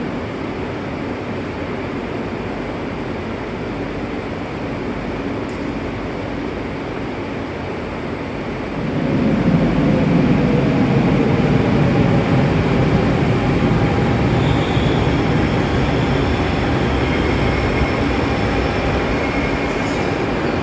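RER A commuter train in an underground station: a steady rumble, then about nine seconds in a train's rumble grows suddenly louder and stays, with faint whining tones coming in during the second half.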